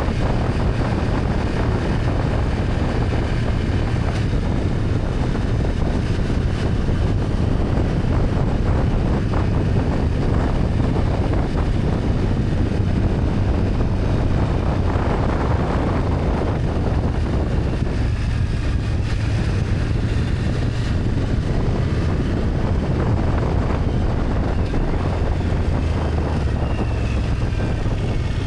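BMW F800GS parallel-twin engine running steadily while riding, with wind rushing over the microphone.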